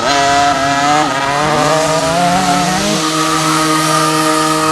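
Motocross bike engines running at high revs, more than one at a time. The pitch climbs sharply at the start, rises again around a second and two and a half seconds in, then holds steady at a high buzz.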